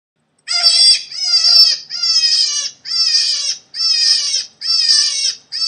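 Rabbit squealing: seven high-pitched squeals in a row, each under a second long, at a steady pace.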